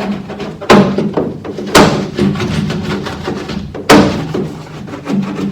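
Sharp thumps and knocks on the pickup cab's sheet metal while sound-deadening mat is pressed on, three loud ones about a second, two seconds and four seconds in, with rubbing between them.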